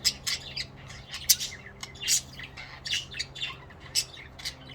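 Pet budgerigars chirping and chattering in quick, irregular high chirps, several a second, over a steady low hum.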